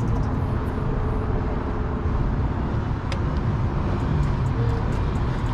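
Steady motor-vehicle rumble, a low even drone without clear rhythm or change.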